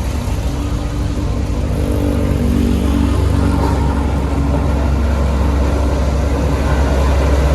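Heavy diesel engine of road-construction machinery running steadily, with a deep low sound that grows gradually louder.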